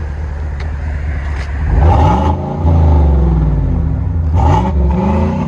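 2019 GMC Sierra's 5.3-liter V8 running through a Flowmaster Super 10 muffler with the factory resonators, pulling away and accelerating. The exhaust note swells and rises in pitch about two seconds in, dips briefly, then rises again about four seconds in.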